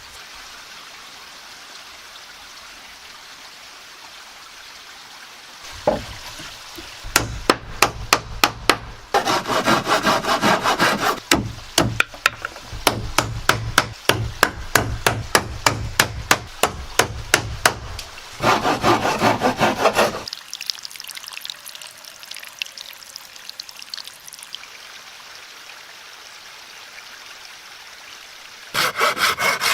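Wood being sawn in spells with pauses between, and runs of quick, sharp knocks about six seconds in.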